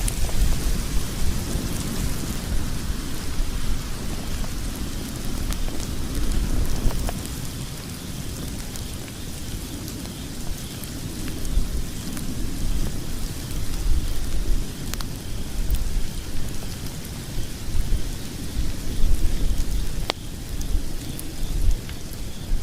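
Wood logs burning in a fireplace: a steady low rumble of flames with scattered sharp crackles and pops throughout.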